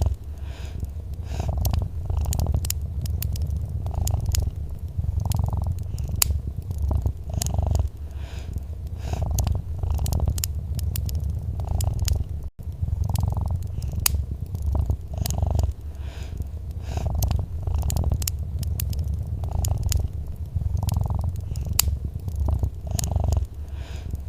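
A domestic cat purring steadily, its low rumble swelling and easing about once a second with each breath, over the sharp crackles and pops of a wood fire. All sound cuts out for a split second about halfway through.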